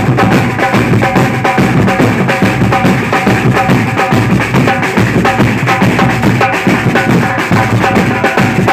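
Samba percussion group playing a driving beat: deep bass drums under dense snare and other drum strokes, with short repeated pitched notes on top.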